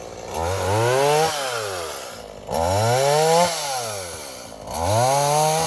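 New Stihl chainsaw revved three times, its engine note climbing in pitch and falling away again each time.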